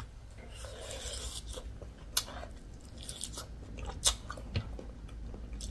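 Close-miked eating sounds of someone biting into and chewing a crispy fried chicken wing: crunching and wet chewing, with two sharp crackles about two and four seconds in.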